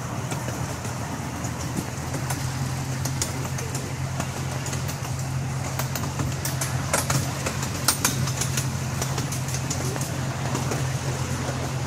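Amusement-park train moving along its track, heard from aboard: a steady low locomotive drone with irregular clicks and rattles from the wheels and cars, busiest in the middle of the stretch.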